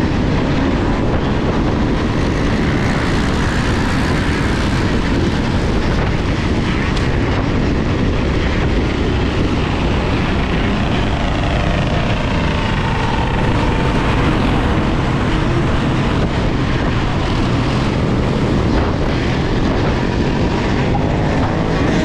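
Steady, loud wind rush and rumble on a GoPro microphone riding an electric dirt bike, with a faint whine that rises and falls midway.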